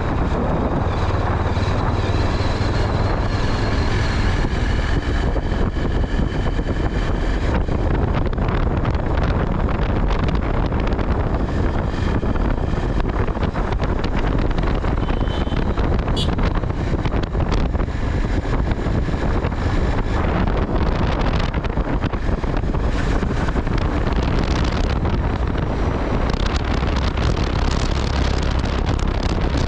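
Wind buffeting the microphone during a ride: a loud, steady rush with low rumble from moving along the road, without letup.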